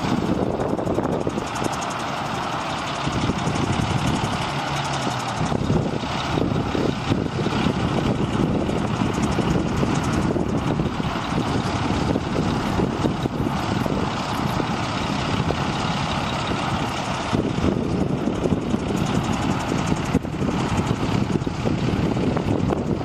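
Diesel engine of a 1997 International 2674 crane truck running steadily.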